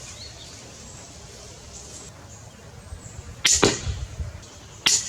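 Cobra pistol crossbow shot: a sharp snap of the string about three and a half seconds in, followed a split second later by a second hit, then another sharp click near the end.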